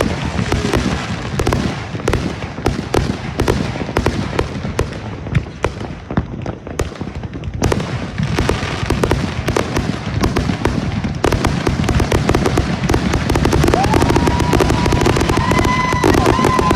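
A dense fireworks barrage: rapid shots and crackling bursts, many every second, with low booms under them. About three-quarters of the way in, a steady high whistle joins and holds to the end.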